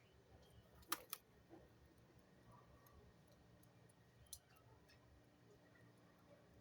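Near silence broken by three short, sharp clicks: two in quick succession about a second in, and one more a little after four seconds.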